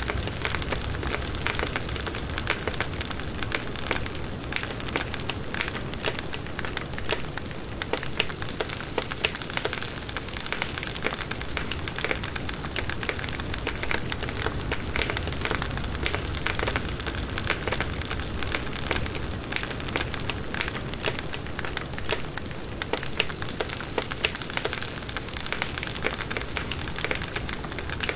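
Campfire of firewood logs burning, with dense, continuous small crackles and pops over a low rumble of flame.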